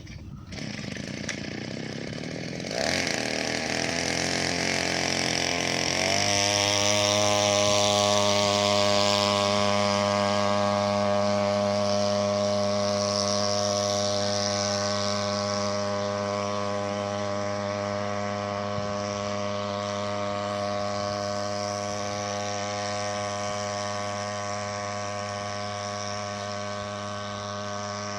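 Small 3 hp outboard motor speeding up: its pitch climbs over the first six seconds or so, then it runs steadily at high revs, pushing the boat along under power.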